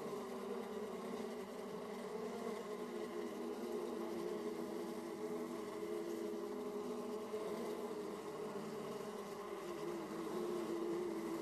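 Many honeybees buzzing at a hive entrance: a steady, continuous hum of several overlapping wingbeat tones that drift slightly in pitch as bees come and go.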